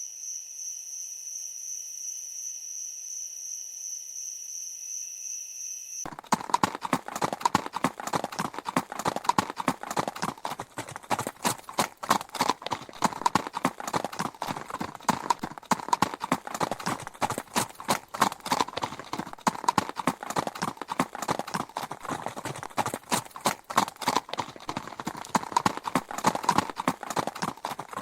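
A steady high-pitched buzz for about six seconds, then an abrupt cut to a horse's hooves clip-clopping in quick, dense hoofbeats.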